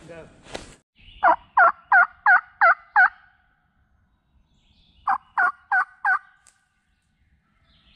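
Turkey yelping: two runs of evenly spaced yelps, about three a second, six in the first run and five in the second a couple of seconds later.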